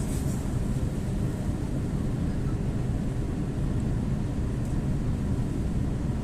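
EP2D electric multiple unit running along the line: a steady low rumble that holds an even level throughout.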